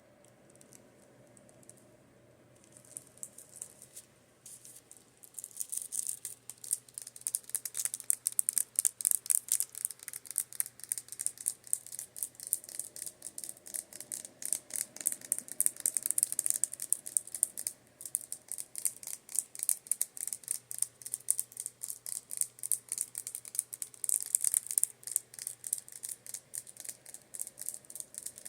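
Fast, rhythmic tapping on makeup brushes, a dense run of light clicks that starts softly and picks up about five seconds in, pausing briefly midway. A fan hums faintly and steadily underneath.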